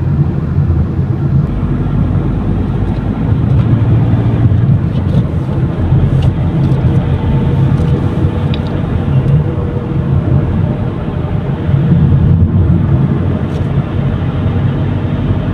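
Steady car engine and tyre noise heard from inside the cabin while driving.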